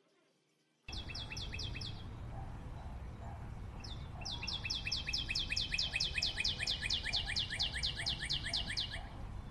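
Near silence for about the first second, then birdsong over a low steady rumble. A bird gives a short run of quick, high, downward-sweeping chirps, then after a pause a long run of the same chirps, about five a second, lasting several seconds.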